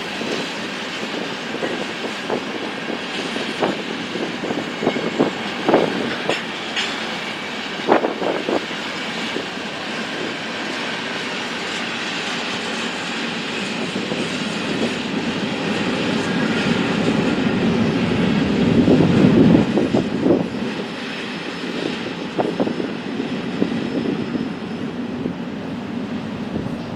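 Train cars rolling past on the rails, a steady rumble with a few sharp clicks of wheels over rail joints, swelling louder about two-thirds of the way through.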